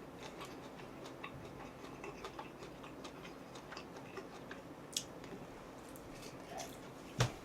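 Faint, irregular small clicks and ticks over low room noise, with a sharper click about five seconds in and a louder knock near the end.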